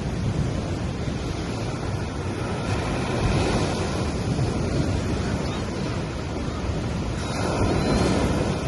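Gentle sea waves breaking and washing up on a sandy beach, with one swell of surf about three seconds in and a louder one near the end.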